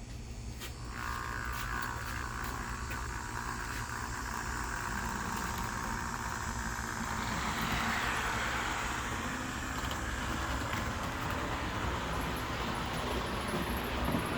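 Athearn Red Box HO scale powered RDC running along the track, its small electric motor and rubber-band drive whirring steadily with the wheels rolling on the rails. The whirring starts about a second in and grows a little louder around the middle.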